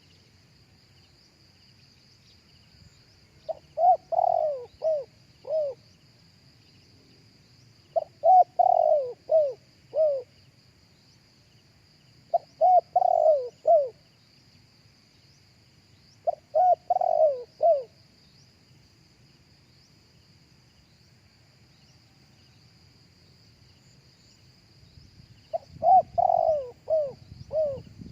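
Spotted dove cooing: five phrases of four or five short coos each, repeated about every four seconds with a longer pause before the last. A faint steady high insect drone runs underneath.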